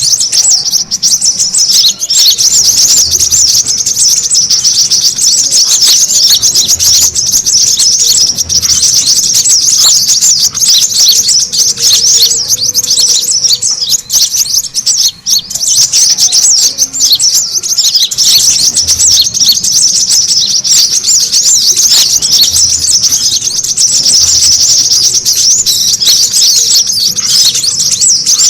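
Brown-throated sunbirds (kolibri kelapa) chattering in a dense, high-pitched stream of rapid chirps, several birds calling over one another, with a brief lull about halfway.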